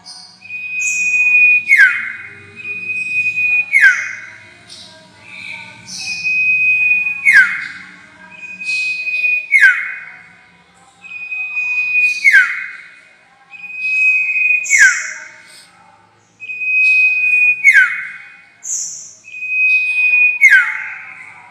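Sirtu song used as a lure call: a phrase repeated every two seconds or so, each a held high whistle that breaks into a sharp downward slur, with short, higher chips between phrases.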